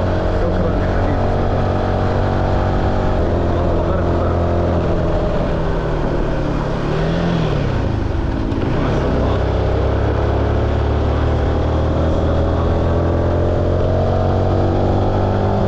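Car engine running steadily, its pitch rising and falling briefly about halfway through and climbing again near the end.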